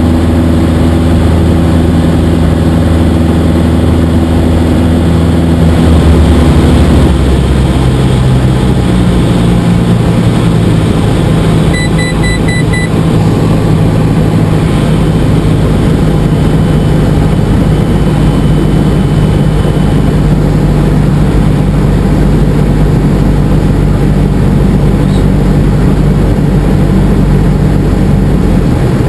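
Cessna 172SP's four-cylinder Lycoming IO-360 engine and propeller running steadily, heard from the cockpit, with the engine note shifting about six to seven seconds in. A short rapid string of beeps comes about twelve seconds in.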